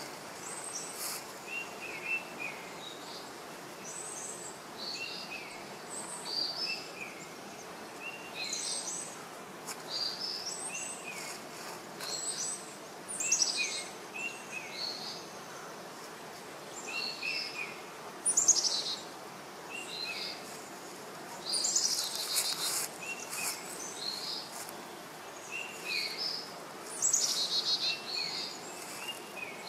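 Several birds calling, short chirping notes repeating every second or two, some of them sweeping downward, over a steady background hiss.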